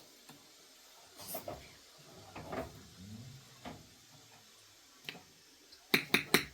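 Household dishes and cutlery knocking and clinking: a few scattered small knocks, then a quick run of sharp clinks near the end.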